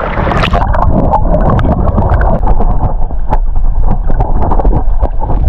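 Muffled underwater rumble and sloshing picked up by a camera dipped below the sea surface, with scattered sharp clicks and knocks.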